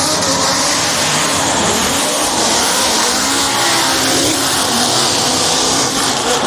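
Drift cars on track, engines revving and tyres squealing in a loud, continuous din.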